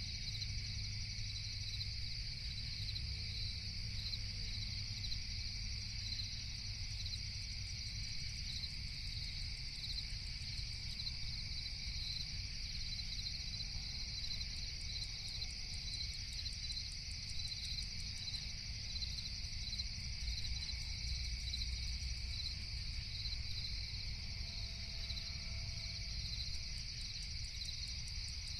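Crickets chirping in a continuous, steady night chorus over a low rumble.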